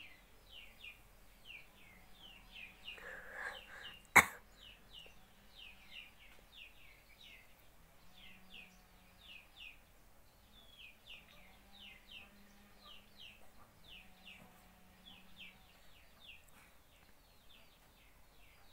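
Small birds chirping steadily, a run of short, high, falling chirps a couple of times a second. A single sharp click about four seconds in.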